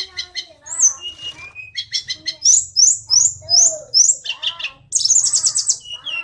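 Tledekan songbird singing a fast, varied song: runs of rapid repeated chirps, short whistled notes sweeping downward, and a quick trill about five seconds in.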